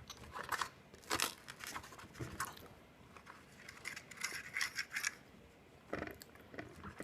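Close-miked eating of a waffle: scattered clicks and short scratchy scrapes of a utensil on the plate, with mouth and chewing noises, coming in small clusters.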